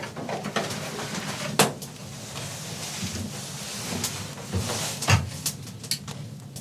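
Scattered knocks and clicks of things being handled, with rustling in between; a sharp knock about a second and a half in and a heavier thump about five seconds in.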